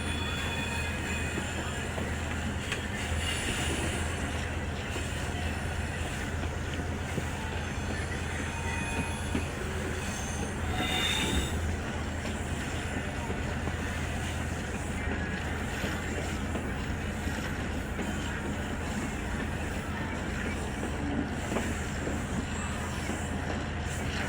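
Passenger train running along the track, heard from on board: a steady low rumble of wheels and carriages, with a brief high wheel squeal about eleven seconds in.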